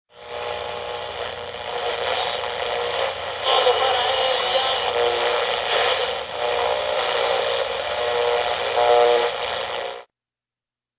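Railroad train sound effect opening an old radio broadcast: a steady rushing, running sound with a few held tones through it, in thin, narrow old broadcast audio. It cuts off suddenly about ten seconds in.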